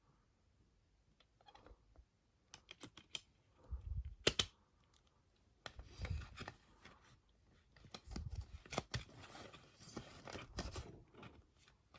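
CD packaging being handled and opened: a few sharp clicks, then several bursts of crackling and tearing, as of plastic wrap being pulled off.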